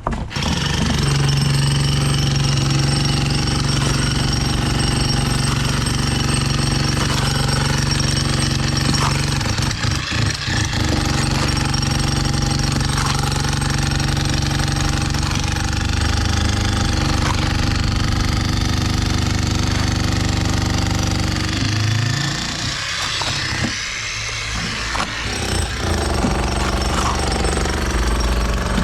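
Construction machinery running loudly: rapid mechanical hammering over a steady engine drone, easing off for a few seconds about three quarters of the way through before picking up again.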